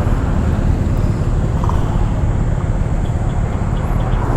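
A motorcycle running with a steady low rumble.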